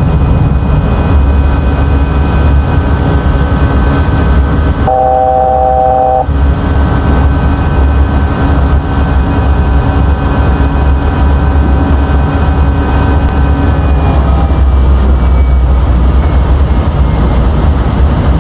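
Airbus A320 flight-deck noise in the initial climb after a touch-and-go: a loud, steady rumble of airflow and engines, with steady engine tones running through it. A short tone sounds for about a second, about five seconds in. The engine tones dip slightly in pitch about fourteen seconds in.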